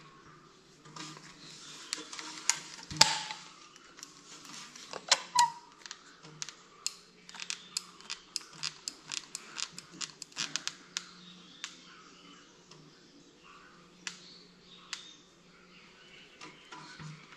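A run of sharp clicks and light knocks, irregular and at times several a second, with one louder knock about three seconds in.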